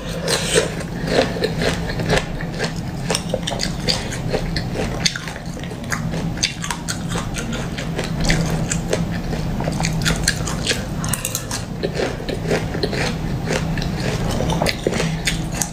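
Close-up crunching and chewing of frozen pomegranate seeds: many sharp, irregular crunches as the icy seeds are bitten through, over a steady low hum.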